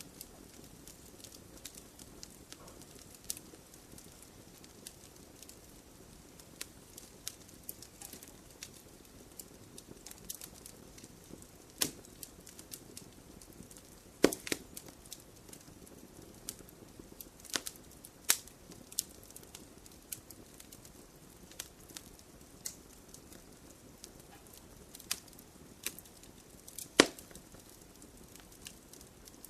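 Campfire crackling: irregular sharp pops and snaps, several of them louder, over a soft steady rush of the burning fire.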